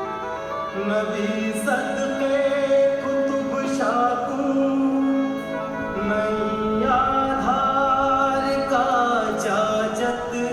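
Music: a slow song, a voice holding long ornamented notes over instrumental accompaniment.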